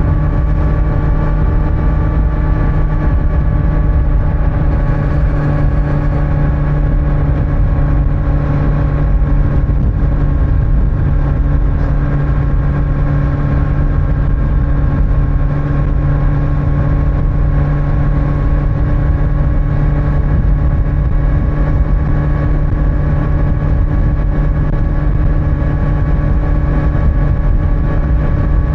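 Kawasaki Z900's inline-four engine on its stock exhaust, running at a steady cruise with its pitch holding level throughout. Under it is a constant low rumble of wind and road noise.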